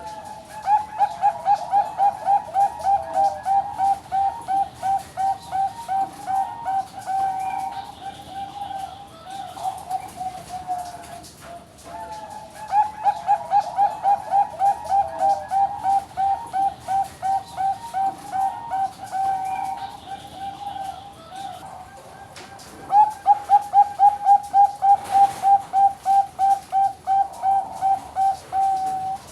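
Bangkok-type zebra dove (perkutut) singing: three long bouts of rapid cooing, about four notes a second, each bout lasting several seconds with short pauses between.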